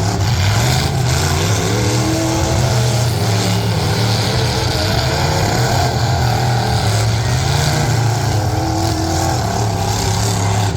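Derby trucks' engines running loud and revving, their pitch wavering up and down.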